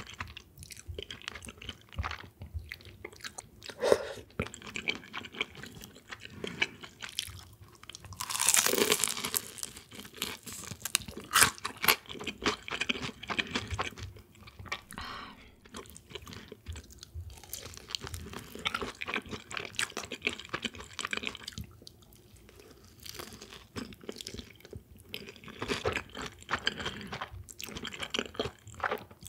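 Close-miked eating sounds: chewing and crunching with many small, irregular mouth clicks, and a longer, louder stretch about nine seconds in.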